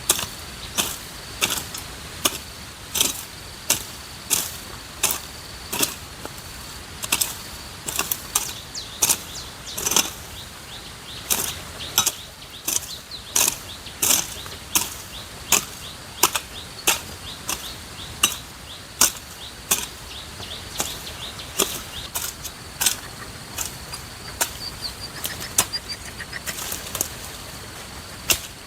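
A steady series of sharp knocks, about three every two seconds, over a steady high insect drone.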